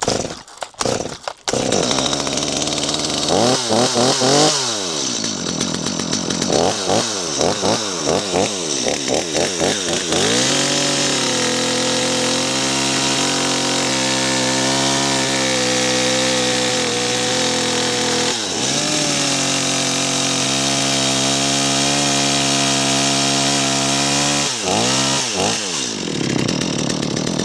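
Gasoline chainsaw revving in short blips, then running at steady load through two long cuts in wood, with a rev between them, before revving and winding down near the end.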